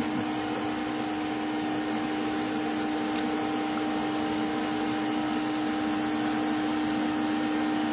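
Steady hum of a bee vacuum running, with a constant tone over an even rush of air.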